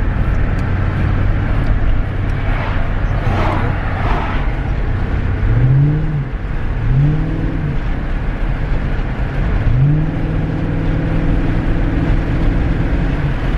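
Car engine running while driving: steady at first, then the revs climb and drop back twice, typical of upshifts, and about ten seconds in they climb again and hold steady.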